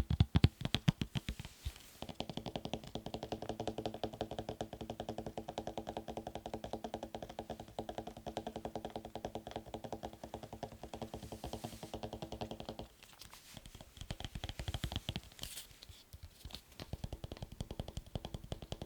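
Very fast fingertip tapping on hard objects, many taps a second. From about two seconds in until about thirteen seconds the tapped object rings with a pitched, hollow tone under each tap. The tapping then turns fainter and picks up again near the end.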